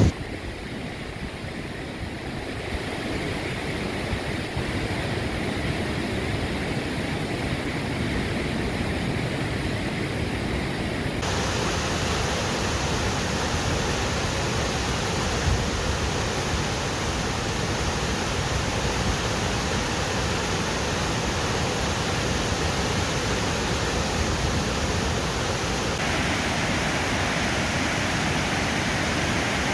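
Štrbački buk waterfall on the Una river: a steady rush of falling water. It grows brighter and hissier about eleven seconds in and again near the end.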